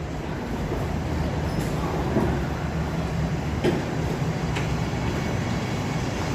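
Steady low rumble and hum of a subway station, with a few faint clicks.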